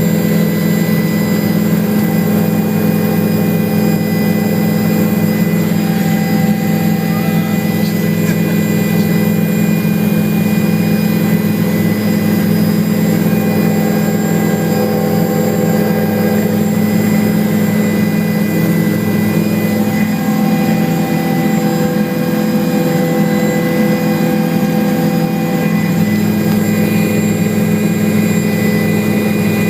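Helicopter turbine and rotors running at a steady drone, with constant whining tones above it and no rise or fall in loudness.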